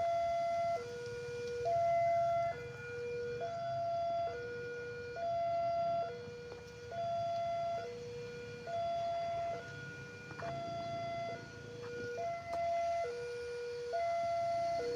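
Two-tone electronic warning siren, alternating steadily between a high and a low note, each held just under a second, over a faint low rumble.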